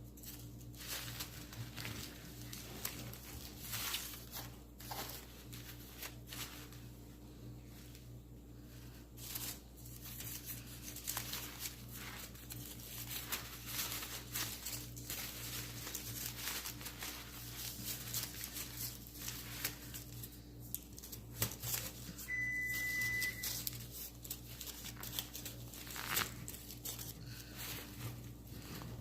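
Artificial flowers and greenery rustling and crinkling as they are handled and arranged on a bird cage, with scattered small clicks and taps. A steady low hum runs underneath, and a short high beep sounds about three-quarters of the way through.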